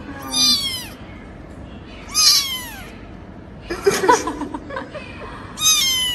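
Kitten meowing three times, high-pitched calls that fall in pitch, with a shorter, lower-pitched vocal sound between the second and third.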